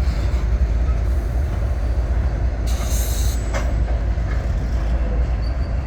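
Norfolk Southern freight train rumbling as it gets moving, with a short hiss about three seconds in and a sharp click just after.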